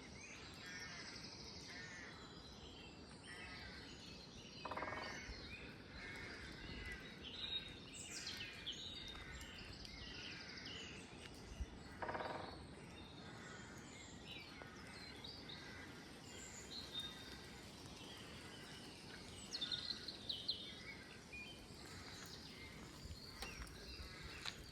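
Woodland birdsong: several small songbirds singing and chirping, with two harsh caws of rooks about five and twelve seconds in.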